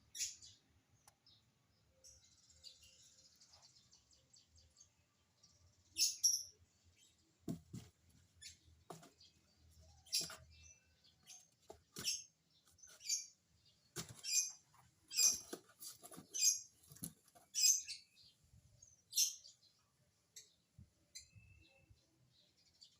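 Lovebirds giving short, sharp, high-pitched chirps, repeated irregularly and most often in the middle of the stretch, with a softer chattering early on and a few light knocks.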